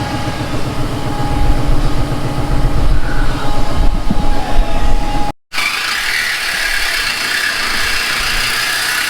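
Exhaust of a Hellcat's supercharged 6.2-litre Hemi V8 running through a mid-pipe delete with the stock mufflers and resonators: a loud, deep rumble that swells after about a second. It cuts off about five seconds in and gives way to a steady hiss with a faint high whine.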